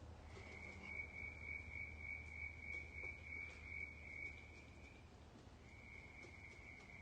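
A steady high-pitched trill from a calling animal, beginning just after the start, breaking off about five seconds in and starting again shortly after. A faint low hum runs under the first part.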